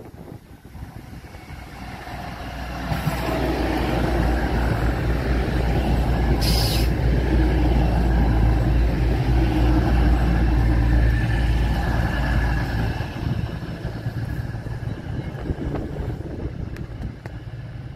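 East Midlands Railway Class 222 Meridian diesel multiple unit passing: the rumble of its underfloor diesel engines and wheels on the rails builds as it approaches, stays loud for about ten seconds as the coaches go by, then fades as it pulls away. A brief hiss sounds about six seconds in.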